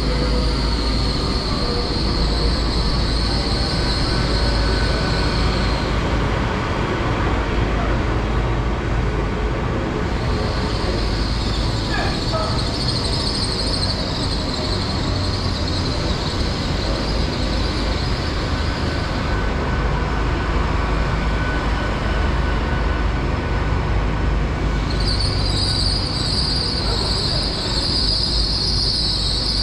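Class 802 bi-mode train pulling into the platform, with a steady low rumble and a high squeal that comes and goes three times.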